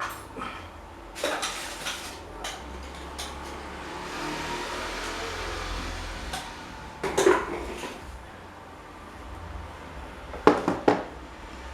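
Metal parts being handled and set down on a hard surface: scattered clinks and knocks, the loudest about seven seconds in and a quick cluster of three near the end, over a low steady hum.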